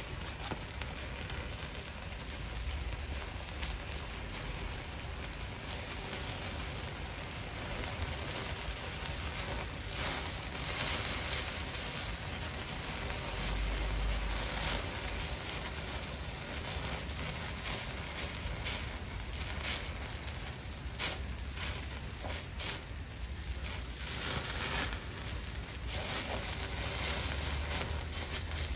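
Horumon (offal) sizzling over a wood campfire: a steady hiss with irregular crackles and pops.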